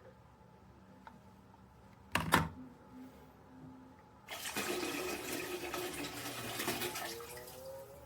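A sharp clunk about two seconds in, then about three seconds of rushing, gurgling water with a low hum under it, fading near the end.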